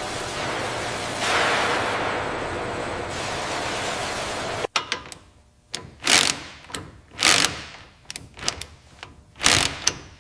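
A steady hiss of hangar machinery that cuts off suddenly. Then comes tool work: several short bursts of a power tool, with clicks and knocks between them.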